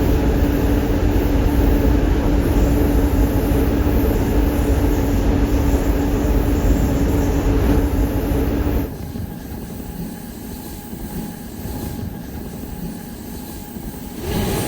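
Train running on the line: a loud, steady rumble with a constant low hum. About nine seconds in it cuts abruptly to a quieter level of the same running noise.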